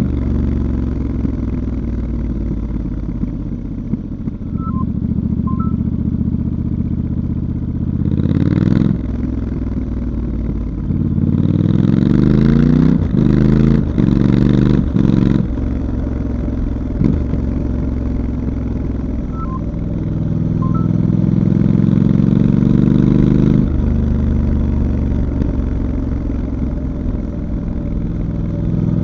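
Stock 2019 Triumph Scrambler 1200 XE's parallel-twin engine under way, revs rising and falling. About halfway through it accelerates through several quick upshifts, each climb cut off by a shift, and near the end it pulls up steadily again before the throttle closes.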